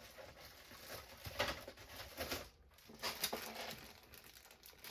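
Kit parts being handled on a workbench: light rustling and tapping, with a few louder clatters around the middle.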